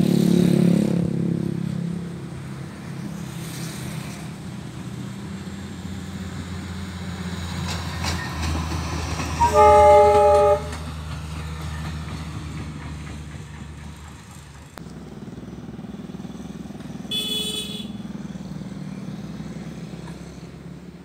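Train running on the track with a steady low rumble, loudest at the start. About ten seconds in a train horn gives one blast of about a second. A shorter, higher-pitched toot sounds a few seconds before the end.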